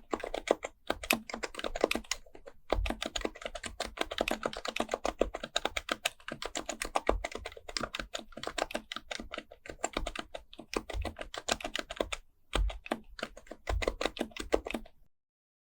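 Fast, continuous typing on an HHKB Pro Type-S keyboard with Topre electrostatic capacitive switches: a dense run of soft, irregular key clicks with an occasional deeper thud. It stops abruptly near the end.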